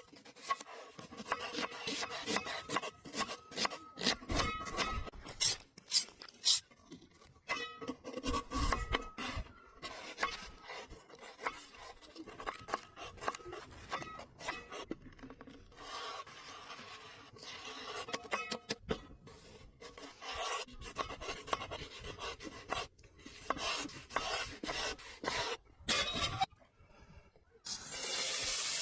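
Irregular rubbing and scraping with many small clicks and knocks, stopping and starting. A steady hiss sets in near the end.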